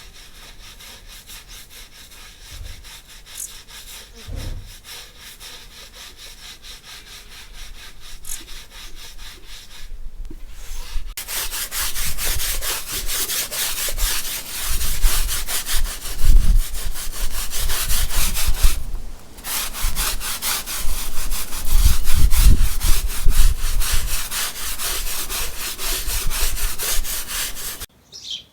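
A stiff brush scrubbing in quick, even, repeated strokes. It is faint at first, much louder from about eleven seconds in, and pauses briefly near the middle.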